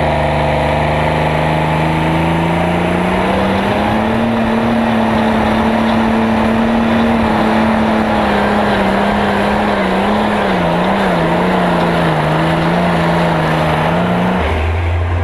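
Light super stock pulling tractor's engine running at full throttle under load down the track. Its pitch climbs about three seconds in and holds high, wavers briefly, then cuts off abruptly near the end as the throttle is shut off, leaving a lower rumble.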